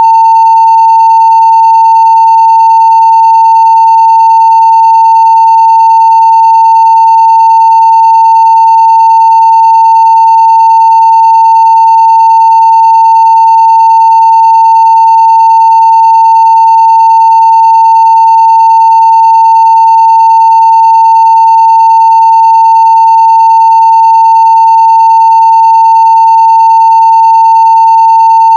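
Continuous 900 Hz sine-wave audio test tone at full scale (0 dB), steady and unchanging, with faint higher overtones.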